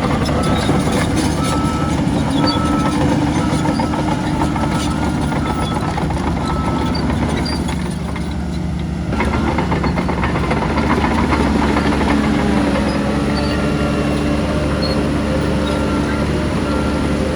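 Diesel engines of earthmoving machinery running steadily, with a reversing alarm beeping about once a second for the first several seconds and again near the end. The noise eases briefly about eight seconds in.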